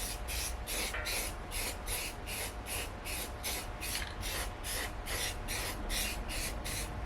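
Rapid, evenly paced hand scrubbing or rasping strokes, about three and a half a second, each a short hiss; they stop at the very end.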